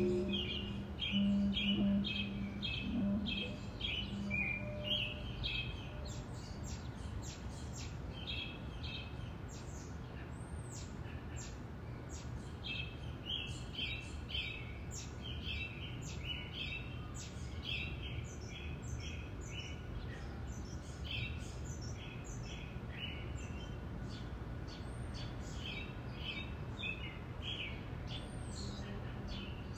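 Songbirds singing: rapid runs of repeated high chirps and trills that go on throughout, over a steady low rumble. A low held tone fades out in the first few seconds.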